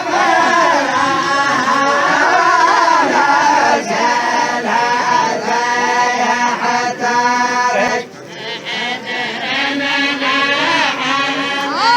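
A group of voices chanting in unison, a tribal la'ib chant of the Jazan region. The singing breaks off briefly about eight seconds in, then resumes.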